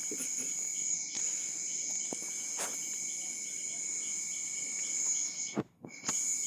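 Crickets chirping in steady, high continuous trills, with a faster pulsing chirp beneath them. A few sharp clicks cut through, and the sound drops out briefly near the end.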